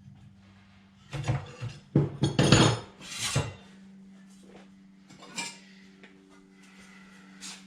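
Sheet steel and metal tools being handled, giving a cluster of metallic clanks and rattles in the first few seconds, then single clanks about five seconds in and near the end, over a steady low hum.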